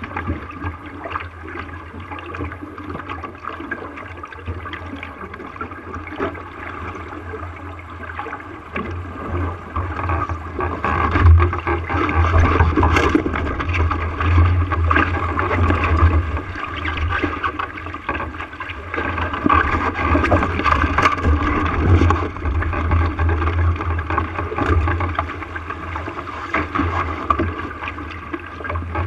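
Water rushing and gurgling along a small sailing boat's hull as it sails, with a low rumble of wind buffeting the microphone. It grows louder in the middle, then eases off toward the end.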